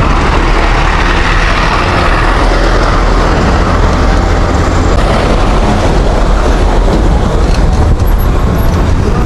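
Steady rush of wind on the microphone while riding a bicycle along a road, mixed with passing road traffic.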